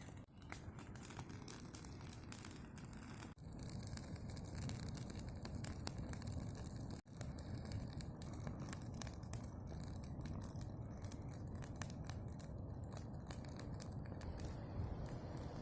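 Small bonfire of brushwood crackling, with many small irregular pops over a steady low rush.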